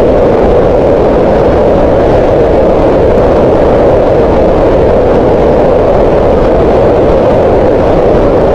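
Green noise: a steady, unbroken hiss of synthetic noise centred in the middle of the range around 500 Hz, like a soft even rush.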